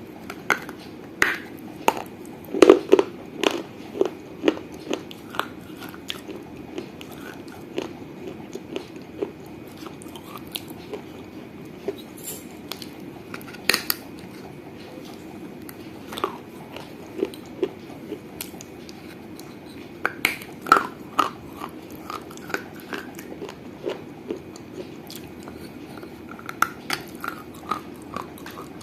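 A person biting and crunching pieces of a small fired-clay piggy bank with the teeth: irregular sharp crunches, coming thickest in clusters about three seconds in and again around twenty seconds in, with slower chewing crunches between.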